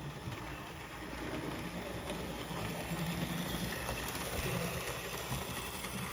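Model train locomotive running on its track: a steady whir with a low hum and a few faint clicks, a little louder about three seconds in.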